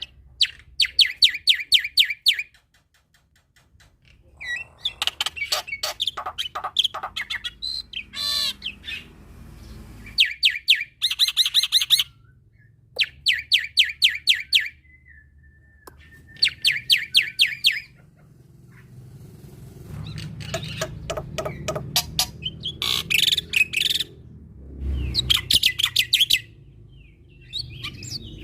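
Male black-winged myna (jalak putih) singing loudly in repeated bursts of fast, sharp, rattling notes, each burst lasting a second or two with short pauses between. A low background hum comes in during the second half.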